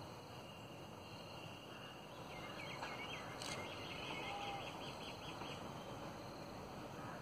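Quiet outdoor background noise with a small bird calling: a few short chirps about two and a half seconds in, then a quick run of repeated high notes lasting about a second. There is one sharp click in the middle of the calls.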